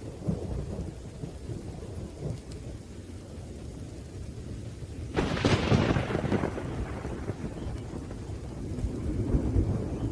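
Thunderstorm with steady rain and continuous rolling thunder rumble; about five seconds in a sharp thunderclap cracks out and rumbles away over a couple of seconds, and the rumble swells again near the end.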